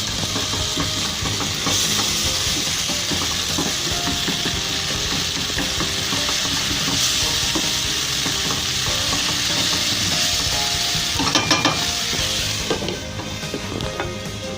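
Tomato and spice curry base sizzling steadily in a cooking pot, with a short clatter of a utensil against the pot about eleven seconds in; the sizzle then eases near the end.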